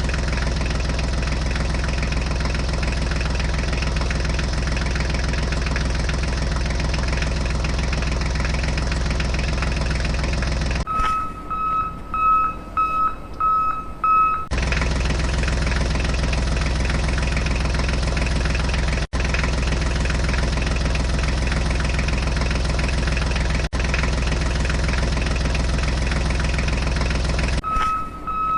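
Steady truck engine rumble. It is cut off abruptly twice, from about eleven seconds in for roughly three and a half seconds and again near the end, by a reversing beeper giving high beeps about twice a second.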